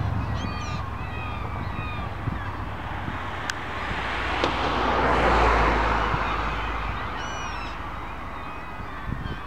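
A vehicle passing, its noise swelling to a peak about halfway through and fading, over a low traffic rumble, with scattered bird calls and chirps.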